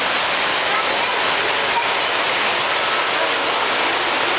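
Steady murmur of a crowd, many indistinct voices blending into an even hiss-like wash.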